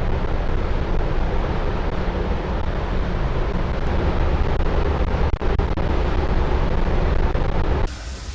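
Car ferry under way: a loud, steady rumble with a rushing noise over it, cutting off suddenly near the end.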